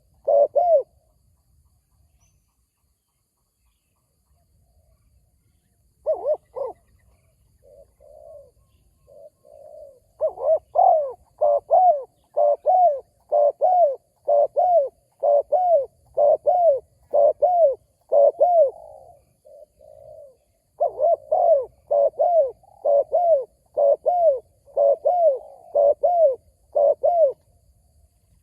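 Spotted dove cooing: long series of short, arched coos, about two a second, with softer, lower notes in between the runs. The cooing starts about six seconds in.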